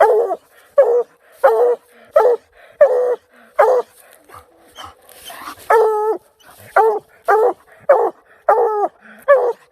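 A coonhound barking steadily at the base of a tree, about one bark every 0.7 s with a short pause midway: the tree bark that tells the hunter a raccoon is treed.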